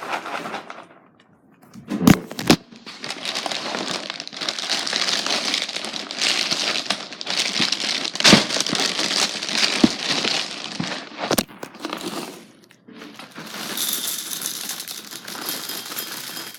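Boo Berry cereal's plastic liner bag crinkling as the cereal is poured into a bowl: a long stretch of dense crackling with a few sharp clicks.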